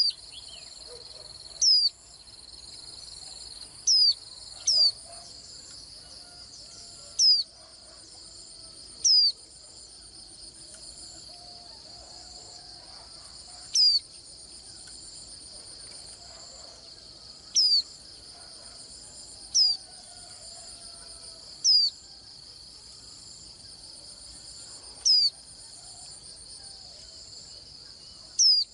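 White-eye giving about a dozen short, sharp, high falling call notes at uneven gaps of one to four seconds, over a steady high buzz.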